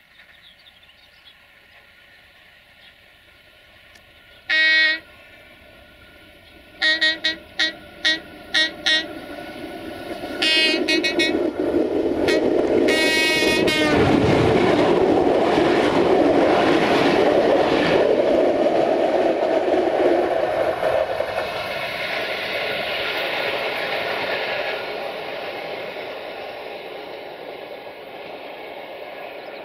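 A 060-DA1 (LDE2100) Sulzer diesel-electric locomotive sounds its horn: one blast, then a run of quick short toots, then a longer blast as it closes in. The locomotive's engine and its train of coaches then pass close by, with rumbling and wheels clicking over the rail joints, and the sound fades slowly as the train runs away.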